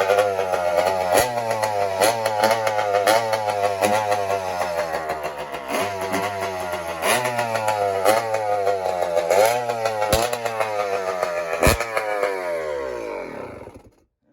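Dirt bike engine revving hard, the pitch climbing and dropping about once a second as the throttle is worked. Near the end the pitch falls and the sound fades away, then cuts off.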